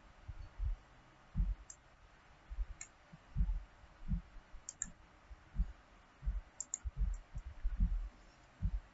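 Computer mouse clicking at irregular intervals, heard as dull low knocks with a few sharper faint clicks among them.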